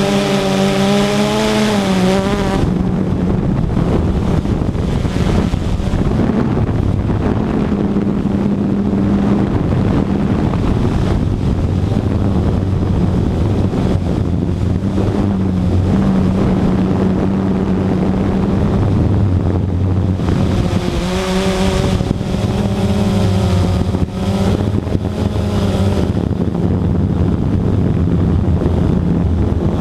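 Radio-controlled model aircraft in flight, its motor giving a steady drone whose pitch wavers as it flies, near the start and again about two-thirds of the way through, with some wind on the microphone.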